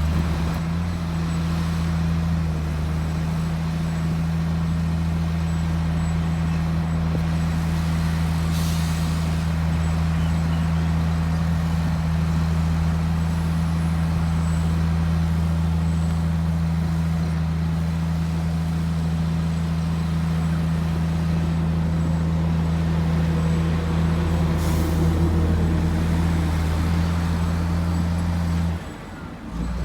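Heavy diesel engine of earthmoving machinery running steadily under a deep, even drone, with two short hisses of air about a third of the way in and near the end. The sound drops out briefly just before the end.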